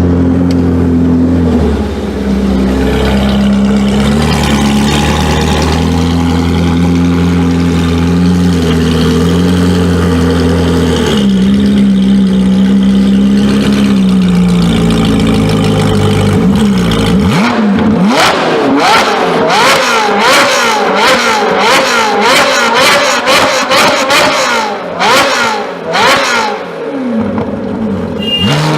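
Performance car engine running at a steady pitch that shifts in small steps. About two-thirds of the way through it breaks into repeated quick revs, the pitch rising and falling again and again.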